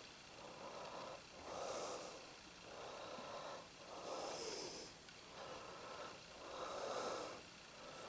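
A person breathing close to the microphone, faint, in a steady run of about seven breaths.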